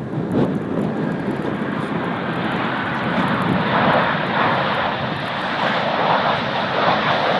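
Boeing 737's twin turbofan jet engines heard close by as the airliner lands: a loud, steady rushing noise that swells in just as it begins and then holds.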